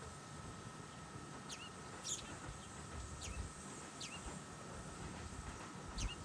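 A bird's short, sharp chirps, each one sliding quickly down in pitch, about five times at uneven intervals, over a faint low rumble and a steady high tone.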